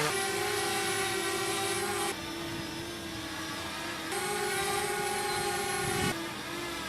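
Small consumer drones' propellers whining in flight, switching abruptly about every two seconds between two different drones: a louder, brighter whine and a quieter, duller one.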